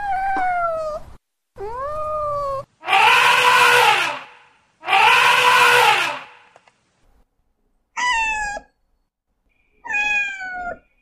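An animal calling repeatedly: six drawn-out, pitched cries separated by short pauses. The third and fourth are the loudest and harshest, and the last two are shorter and slide down in pitch.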